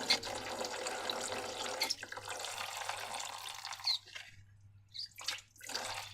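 Liquid being poured in a steady stream that breaks briefly about two seconds in and stops about four seconds in. Two short splashy squirts follow near the end.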